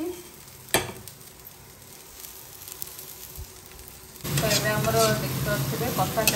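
Steel spatula stirring and scraping soya chunks and potatoes frying in oil in a kadai, with sizzling and metal-on-metal scrapes. It starts suddenly about four seconds in, after a quieter stretch broken by a single knock about a second in.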